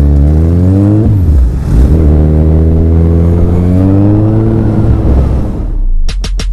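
Kawasaki Z1000's inline-four engine through a straight-pipe Black Widow exhaust with no dB killer, rising in revs, dipping about a second in, then climbing steadily again before easing off. Electronic music cuts in near the end.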